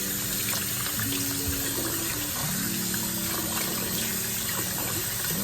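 Kitchen faucet water running steadily into a sink while raw chicken is rinsed under it, over background music.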